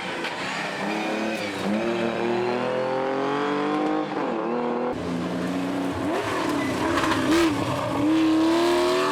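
Rally car engines accelerating hard, revs climbing and dropping again and again through gear changes. About five seconds in there is an abrupt cut to another car doing the same.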